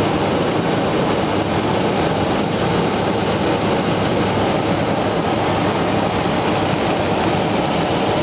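Steady cabin noise of a law enforcement aircraft in flight: loud, even engine and airflow noise with no change in pitch.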